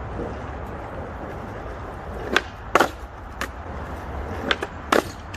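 Skateboard knocking on pavement: about five sharp clacks of the board striking the ground, spaced irregularly and the loudest near the end, over a low steady rumble.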